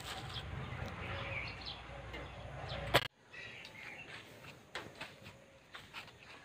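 Birds chirping over a steady outdoor background, with a sharp click about three seconds in, after which the background cuts off abruptly and the chirps go on fainter.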